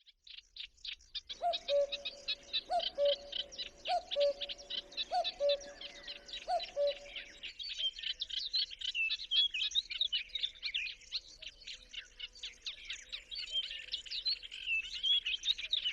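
A common cuckoo calling its two-note "cuck-oo" five times in steady succession, over the continuous fast chattering song of a reed warbler. The cuckoo stops about halfway through, and the warbler's song carries on.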